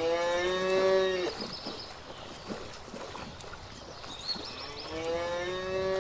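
A cow mooing twice: one call at the very start and another near the end, each about a second long, rising at its onset, holding level and dropping off at the end.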